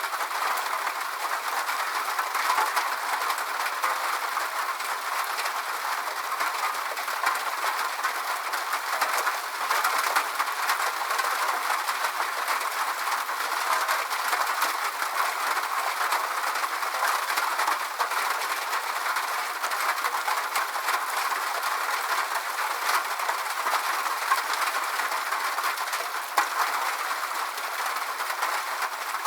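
Steady rain: an even hiss of falling drops, with many small drop ticks in it and no low rumble.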